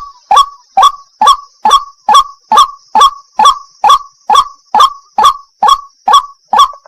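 White-breasted waterhen (wak-wak) repeating its call, a loud note about twice a second, some sixteen times, stopping just before the end. A faint steady high hiss runs underneath.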